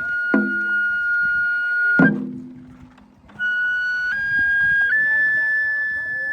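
Japanese festival transverse flute (fue) playing long held high notes. It breaks off for about a second midway, then comes back and climbs in steps. A drum is struck twice, shortly after the start and again about two seconds in.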